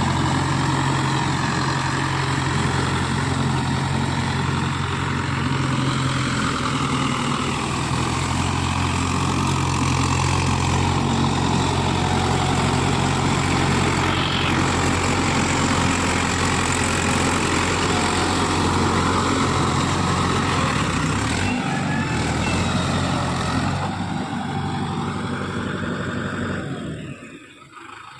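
Tractor diesel engine running steadily. Its sound shifts about three-quarters of the way through, then drops off sharply near the end.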